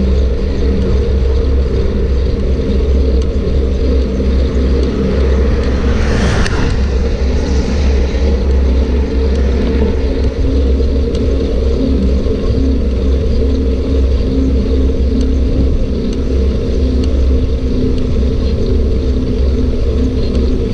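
Loud steady riding noise from a moving bicycle: a low rumble with a constant hum, and a short hissing swell about six seconds in.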